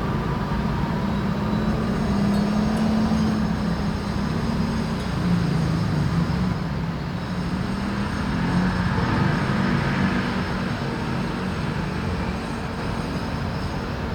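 Steady low rumble of city traffic, its pitch wavering slowly up and down.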